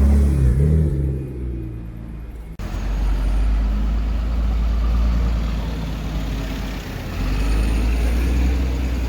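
A car engine revving, its pitch rising and falling, which cuts off abruptly about two and a half seconds in and gives way to street traffic noise with a steady low rumble.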